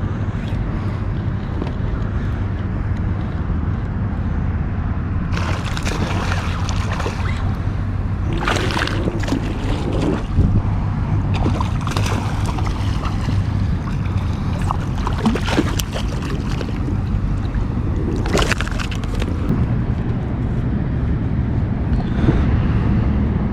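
Water splashing and sloshing in several bursts as a hooked ladyfish thrashes at the surface beside a kayak, over a steady low rumble.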